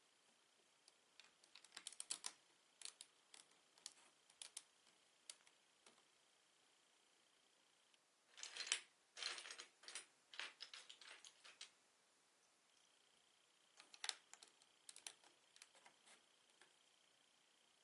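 Plastic Lego bricks being handled and pressed together: small, sharp clicks and rattles in three clusters, with short quiet gaps between them.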